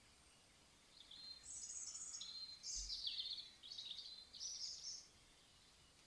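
A songbird singing a run of short, high chirping and trilling phrases for about four seconds, then falling quiet.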